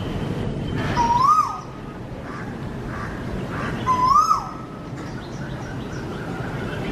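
A bird calling twice, about three seconds apart. Each call is a short whistle that rises and then drops, over a steady background hiss.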